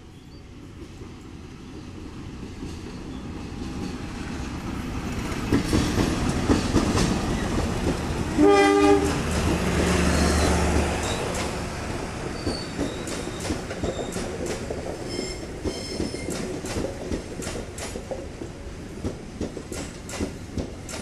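A diesel-hauled passenger train approaches and passes at close range. Its rumble builds steadily, and about eight seconds in the locomotive gives one short horn blast and its engine drone peaks. The coaches then roll past with regular clicking of wheels over the rail joints.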